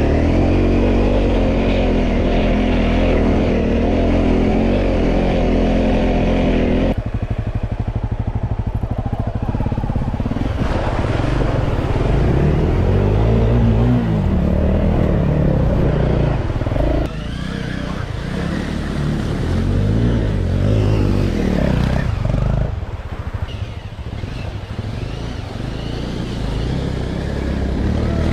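Motorcycle engine running under way, the revs rising and falling. The engine note changes abruptly about a quarter of the way in and twice more later.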